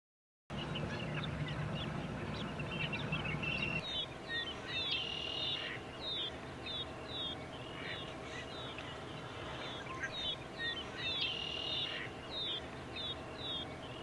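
Outdoor ambience with bird calls: a run of short, high, downward-slurred whistled notes, heard twice, over a steady background hiss. A low hum runs through the first few seconds. The sound starts about half a second in.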